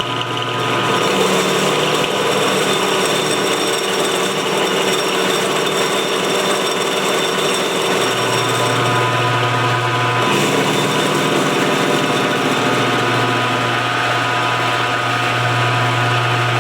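Milling machine running with its cutter working a mild-steel blank: a steady machine drone with several steady tones. The low hum grows stronger about eight seconds in, and the sound shifts briefly about ten seconds in.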